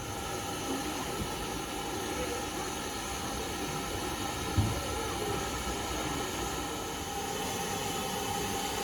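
A train running on the rails: a steady noisy rumble and hiss with held high tones, and a single thump about four and a half seconds in.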